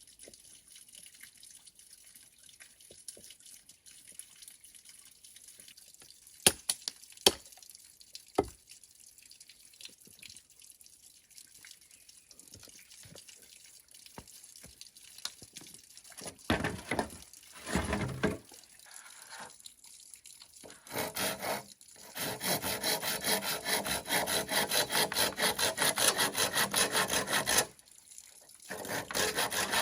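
A few sharp knocks, then a hand saw cutting through bamboo in quick, even strokes that start about two-thirds of the way in and stop briefly near the end before going on.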